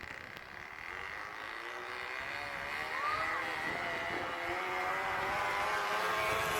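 Plastic bottle fixed to a bicycle so the turning spokes flick it, making a motor-like buzzing rattle that grows steadily louder.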